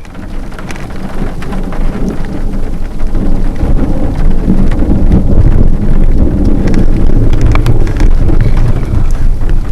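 Heavy rain with a long rumble of thunder that swells over the first three seconds and then stays loud, with sharp ticks of raindrops striking throughout.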